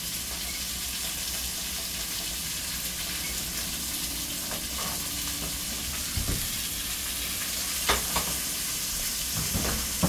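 Beef liver frying in a skillet: a steady sizzle, with a few short knocks in the second half.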